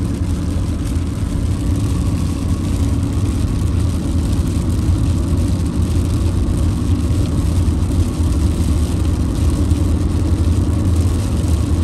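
Steady low drone of a car's engine and road noise, with an even hiss over it.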